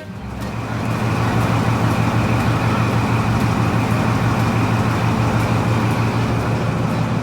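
Diesel train engine running steadily at idle, a loud low hum with a thin high whine above it, fading in over the first second.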